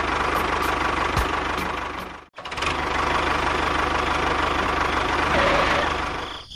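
An engine running at a steady idle with a fast, even knocking beat. It cuts out abruptly a little over two seconds in and starts up again straight after.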